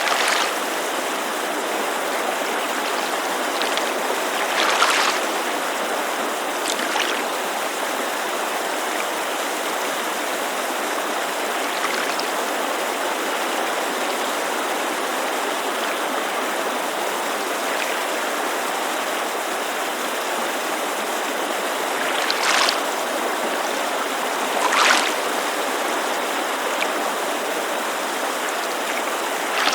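Steady rushing of a mountain creek, with water lapping against a lakeshore in brief, separate splashes every few seconds.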